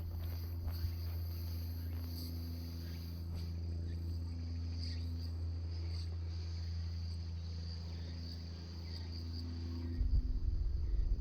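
Crickets chirping steadily in a high, faintly pulsing trill over a steady low hum; a low rumble comes in near the end.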